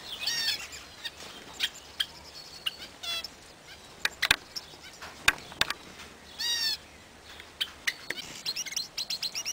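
Small aviary birds chirping in many short calls, with a few sharp clicks among them a little past the middle.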